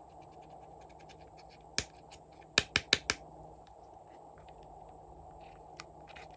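Glossy slime being pressed and worked by hand, giving faint crackles and sharp clicking pops: one pop, then four in quick succession about a second later.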